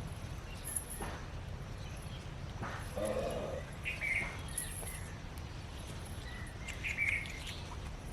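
Birds chirping outdoors, with short calls about four and seven seconds in over a steady low rumble.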